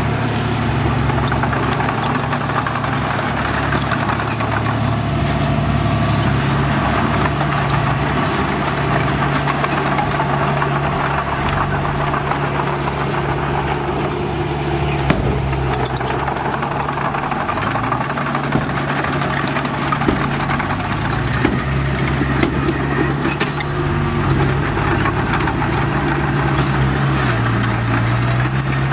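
Bulldozer's diesel engine running steadily, its pitch shifting a little as the load changes, with a few sharp metallic knocks over it.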